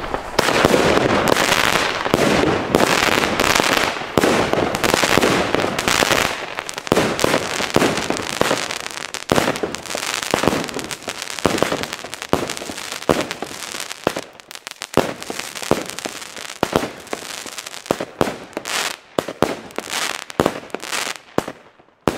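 Klasek Dracco 30 mm fan cake firing its shots: a dense run of bangs and crackle for about the first six seconds, then separate sharp pops and bursts that grow sparser toward the end.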